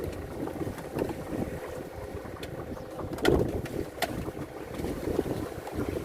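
Strong wind buffeting the microphone and choppy waves slapping against a small fishing boat, with a few sharp knocks on the boat, the loudest about three seconds in.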